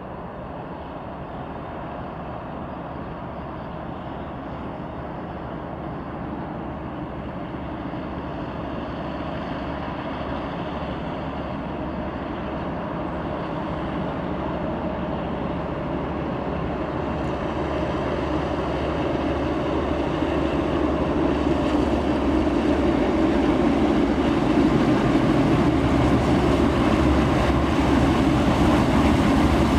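A 2TE10M twin-section diesel locomotive's 5D49 V16 diesel engines working hard as it hauls a freight train up a grade. The deep, steady engine note grows steadily louder as the locomotive approaches.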